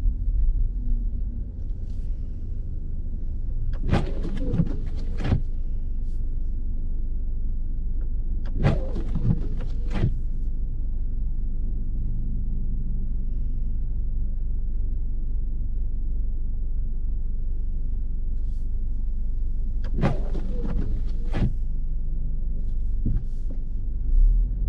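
Steady low rumble of a car driving on a snow-covered road, heard inside the cabin. Three brief louder swishes break through it, about 4, 9 and 20 seconds in.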